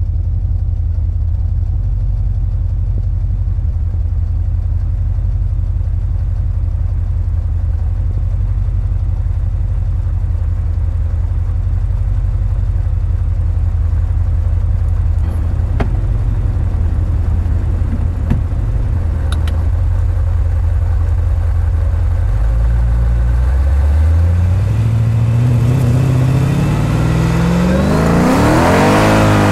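2006 Mercedes-Benz CLS55 AMG's supercharged 5.4-litre V8 through a Supersprint exhaust, idling steadily for about twenty seconds, then pulling away with the engine note climbing to a loud rev near the end.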